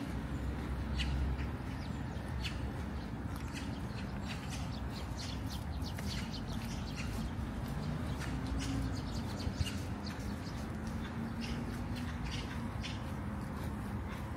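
Birds chirping: many short, high calls scattered through, over a steady low rumble.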